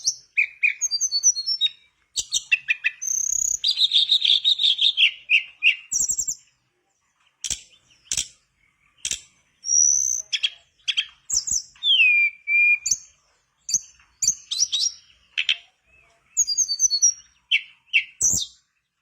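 A tledekan bakau, a mangrove songbird, singing in rapid, varied phrases of high whistles, trills and chirps, broken by short pauses. Sharp clicks come in among the phrases.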